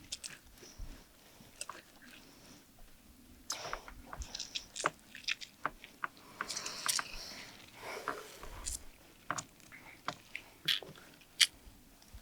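Someone biting into and chewing crisp fried food, with irregular crunches and short clicks.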